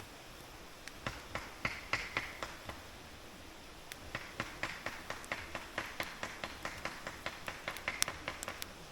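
A run of light, sharp taps: a few scattered ones, then after a short pause a steady series of about three a second that stops near the end.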